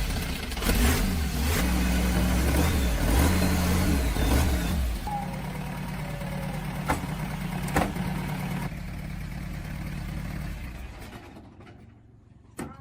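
Restored old truck diesel engine running, revved unevenly at first, then settling to a steadier, quieter run before fading away near the end; two sharp clicks are heard about halfway through.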